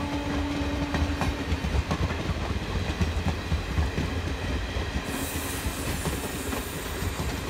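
Passenger train coaches rolling past on the rails: a steady low rumble with irregular clicking of wheels over rail joints. A high hiss comes in about five seconds in.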